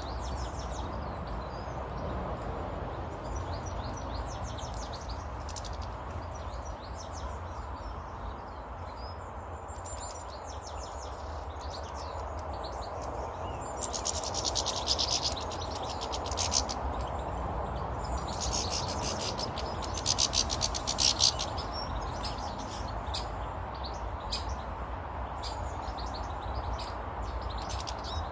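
Small songbirds chirping and twittering, with two louder spells of rapid chattering around the middle, over a steady low background noise.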